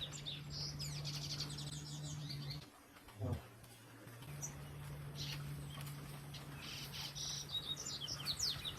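Small birds chirping in quick, repeated high chirps, in two spells, over a steady low hum that drops out for about a second and a half near the middle.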